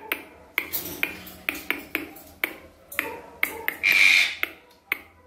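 Finger snaps keeping a beat, about two to three a second, with a short loud breathy hiss about four seconds in.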